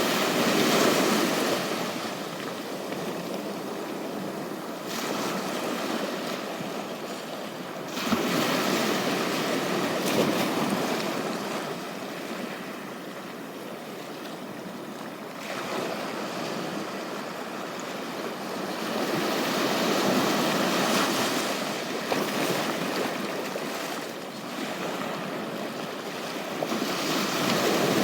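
Sea waves breaking and washing up on a beach. The surf noise swells and ebbs, with a louder surge about every eight to ten seconds.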